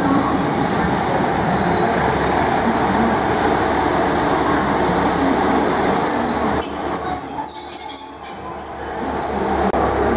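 Class 150 diesel multiple unit rolling slowly into the platform, its diesel engines and wheels rumbling steadily. High-pitched brake and wheel squeal comes in from about six seconds in as it draws to a stop.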